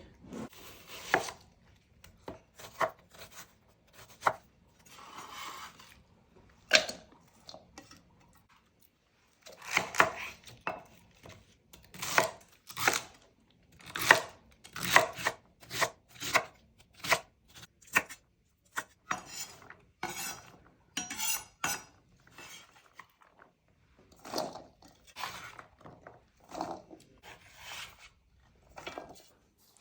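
Kitchen knife chopping onion and celery on a cutting board: sharp, irregular knocks of the blade on the board, in quick runs broken by short pauses.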